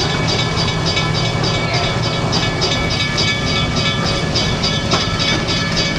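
Passenger train running under way, a steady rumble with a rhythmic clatter repeating about three to four times a second.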